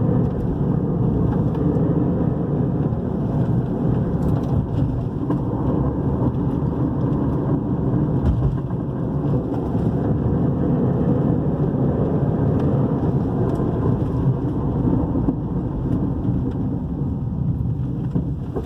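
Steady road and tyre noise inside the cabin of a 2010 Toyota RAV4 2.4 being driven on a road test, with a few faint knocks that the driver puts down to the front suspension.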